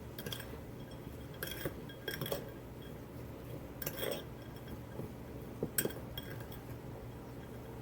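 A spoon clinking against a bowl at irregular intervals as walnuts, sugar and orange blossom water are stirred together.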